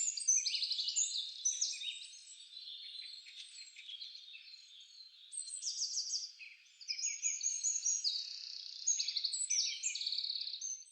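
Several birds chirping and trilling at once, a dense overlapping chorus of fast high trills and short chirps; it cuts off suddenly at the end.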